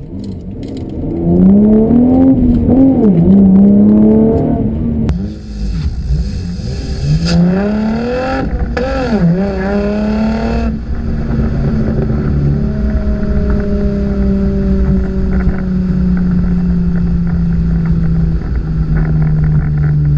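2015 Chevrolet Camaro 1LT's 3.6-litre V6 through its factory dual-mode performance exhaust, revved hard in second gear, with a second hard pull about seven seconds in. Then the throttle is lifted with the car left in gear, and the exhaust settles into a steady drone that falls slowly as the car slows on engine braking.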